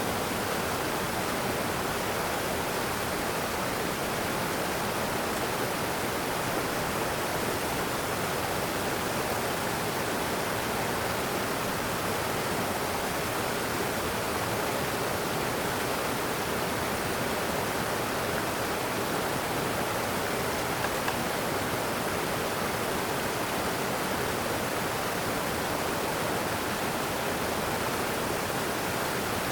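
Steady, even rushing of water, without a break or change for the whole stretch.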